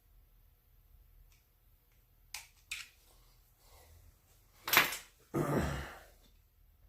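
Small clicks and knocks of hand work on a chainsaw housing while an oil line is tucked in with a screwdriver. Two light clicks, then a sharp loud knock a little past the middle and a brief scraping rustle after it.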